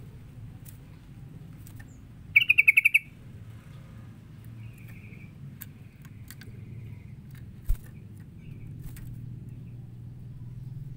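Yellow-vented bulbul calling: a loud, quick burst of bubbly chattering notes about two seconds in, followed by softer rattling notes. A single low thump comes near the end, over a steady low hum.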